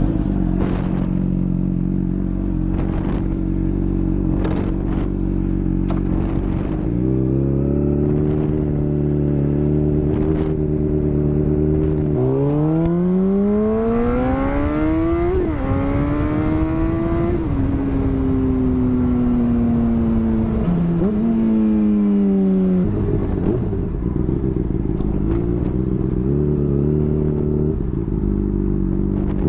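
Motorcycle engine idling, then revving up as the bike pulls away, its pitch climbing through a gear change about halfway. It then holds a steady, slowly falling note and drops back to a low idle-like note for the last few seconds.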